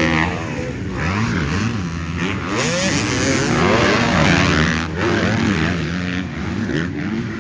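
Several dirt bike engines on track, each revving up and dropping back again and again as the riders accelerate and shift.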